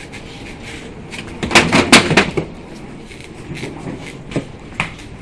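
A cluster of loud knocks and bangs about a second and a half in, lasting under a second, then two sharp single clicks near the end, over a steady background rumble.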